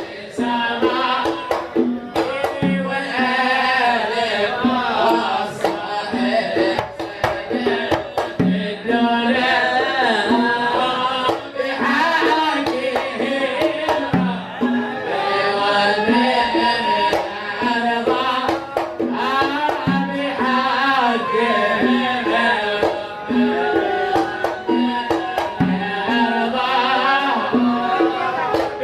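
Sufi devotional singing (sama') with hand drums beating out a steady, repeating rhythm under the voice.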